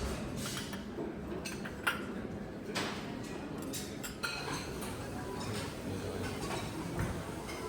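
Dishes and cutlery clinking now and then over a murmur of background voices, as in a lounge dining area.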